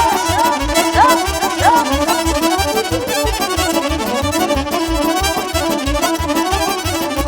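Instrumental Romanian party music played live: an accordion carries the melody over a fast, steady beat.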